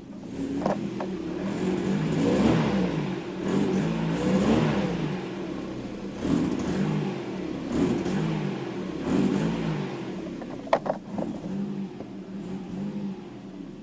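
Mercedes-Benz 124's 2.0-litre four-cylinder petrol engine with KE-Jetronic mechanical injection, running cold with its revs rising and falling again and again, about every two seconds. This is the unstable running and sagging revs it was brought in for. There are a couple of sharp clicks near the end.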